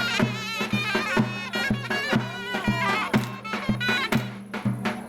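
Turkish folk dance music: a reedy wind instrument plays a wavering, ornamented melody over steady drum beats, about two a second.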